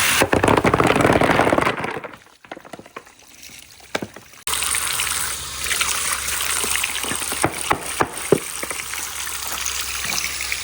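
Water rushing down a water-powered marble run, with marbles clicking and knocking against the track. The flow drops away about two seconds in and comes back suddenly a couple of seconds later, as held-back water is released.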